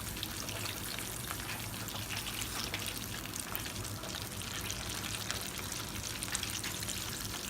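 Chicken legs frying in hot grease in a pan: a steady crackling sizzle.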